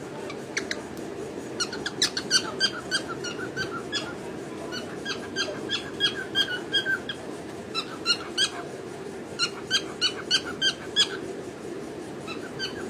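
Cockatiel chirping and singing: rapid runs of short, high, squeaky chirps in several bursts broken by brief pauses, over a steady low background hum.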